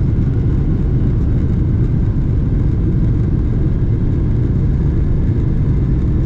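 Cabin noise of a Boeing 777-300ER in motion: its GE90 jet engines and the rush of air give a loud, steady low rumble, unchanging throughout.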